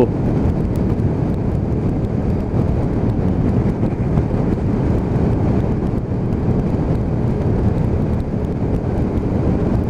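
Motorcycle engine running at a steady cruising pace, mixed with wind rush on the microphone.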